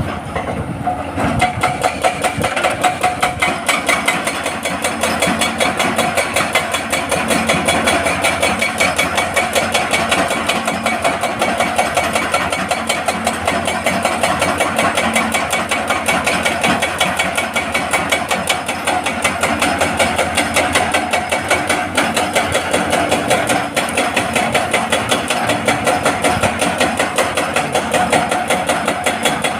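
Hydraulic breaker on a Hitachi excavator hammering rock in a rapid, steady beat, over the drone of the excavator's diesel engine.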